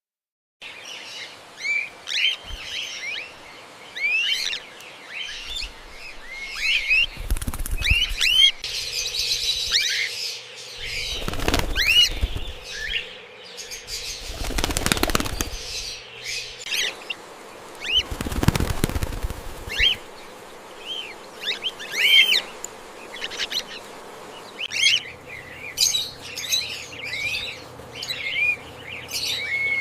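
A flock of cockatiels chirping continually in short rising and falling calls, with four bursts of wing flapping of a second or two each.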